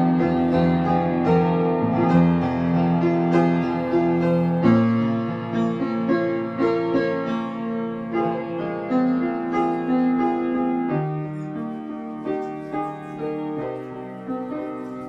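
Instrumental piano music: slow, held chords with a melody on top, no singing, growing softer in the second half.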